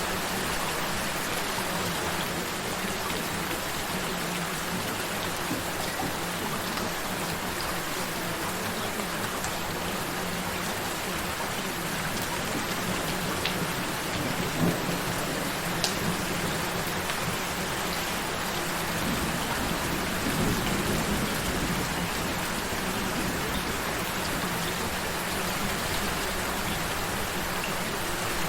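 Steady rain falling, an even hiss with a few sharp drips landing close by. A low rumble swells briefly about twenty seconds in.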